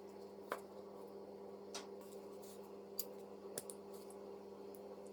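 Faint, sparse small clicks and taps of small diecast model parts being handled and fitted, about five in all, over a steady low hum.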